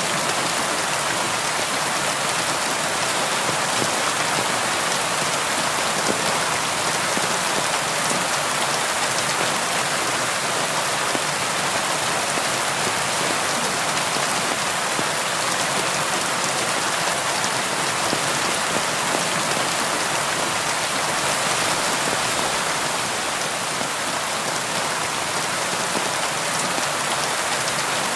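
Steady rain on a window, an even hiss of drops.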